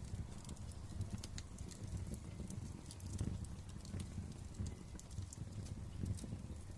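Wood fire crackling in a fireplace: irregular sharp pops and snaps over the low, steady rumble of the flames.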